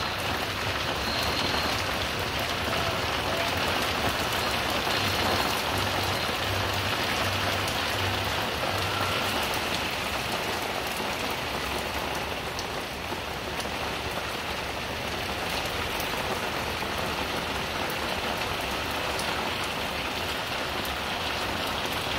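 Heavy rain falling steadily on a tiled patio and garden furniture: a dense, even hiss with scattered sharper drop hits.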